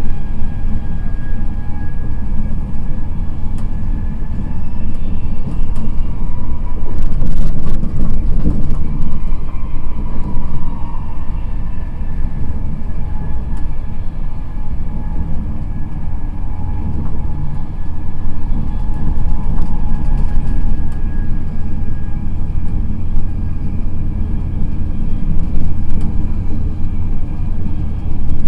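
Express passenger train running at speed, heard from inside a coach: a steady, loud rumble of wheels on the rails with a faint steady whine above it. A short burst of clatter comes about seven seconds in.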